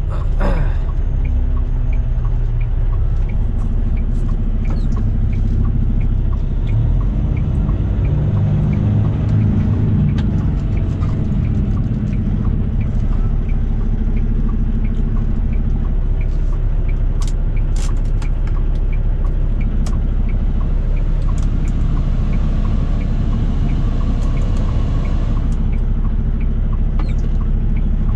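Semi-truck engine and road noise heard inside the cab, a steady low rumble whose engine note rises and falls between gears, with a regular light ticking over it.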